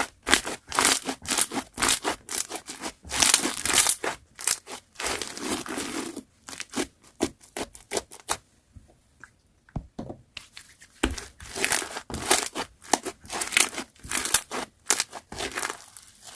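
Slime being squished, pressed and stretched by hand, making irregular crackling, crinkling pops and tearing sounds, with a pause of about two seconds in the middle.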